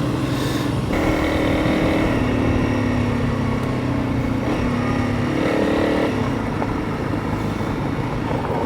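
Honda CRF300 Rally's single-cylinder engine running under way at steady moderate revs, its pitch shifting slightly, with a steady rush of wind and road noise.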